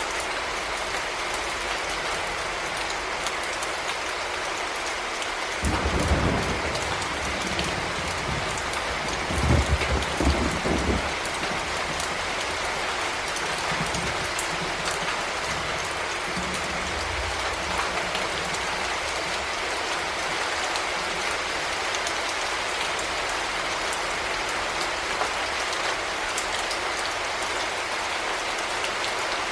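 Heavy rain falling steadily on a surface, an even hiss of many drops. Brief low rumbles come through about six and ten seconds in, with a fainter one later.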